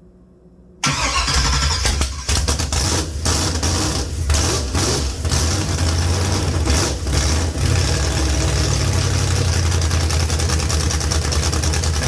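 A Chevrolet 454 big-block V8 firing up for the first time after its build. It catches suddenly about a second in and runs loud, with the level dipping briefly several times in the first few seconds as the revs change.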